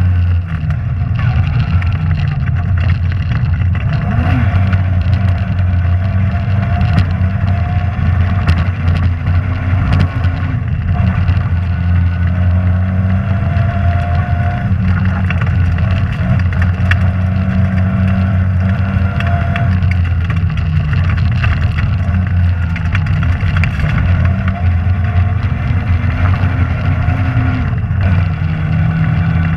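Rally car engine running hard under load, its pitch rising and falling with the throttle and gear changes, with scattered sharp clicks and knocks.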